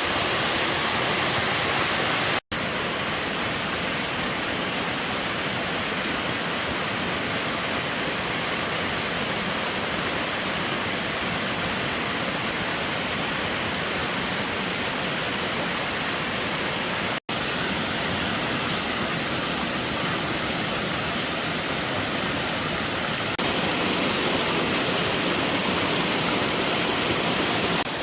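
Steady rushing of water, an even hiss across all pitches. It drops out for an instant twice and grows a little louder near the end.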